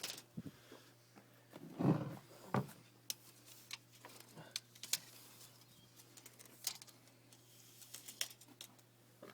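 Scattered light clicks and knocks, about a dozen spread irregularly, with one louder knock about two seconds in, over a faint steady low hum.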